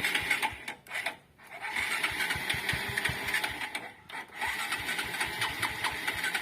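Small motorcycle engine fitted in a homemade mini jeep, running with a rapid uneven firing beat and dipping briefly twice.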